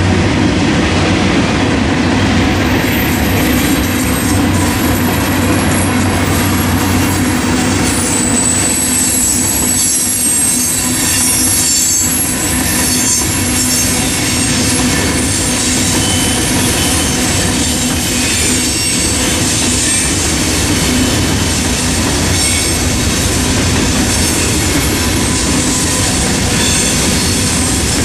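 Freight cars rolling through a road crossing: steady wheel rumble and clatter over the rails, with a thin, high-pitched wheel squeal that grows stronger about eight seconds in.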